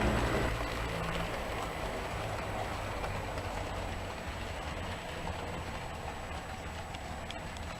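HO scale model train running along the layout track: a steady electric motor hum with wheels rolling on the rails, slowly getting quieter.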